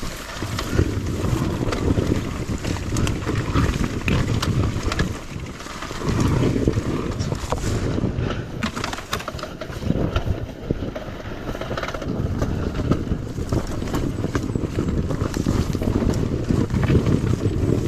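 Beta 300RR two-stroke dirt bike engine running at low revs, rising and falling in surges, with frequent short clicks and knocks over it.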